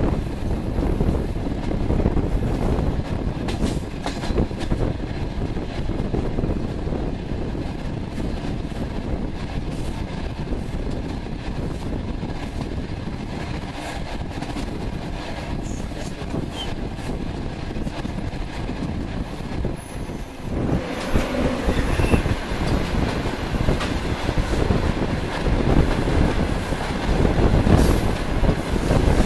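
Steady rumble and wheel clatter of a moving passenger train heard through an open carriage window. About two-thirds of the way through, an oncoming freight train of open gondola wagons passes on the next track, and the sound suddenly becomes louder and brighter with a rushing clatter.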